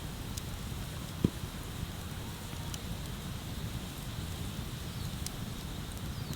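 Wood bonfire crackling: a few sharp ticks and one louder pop of burning wood about a second in, over a steady low rumble of wind or flowing water.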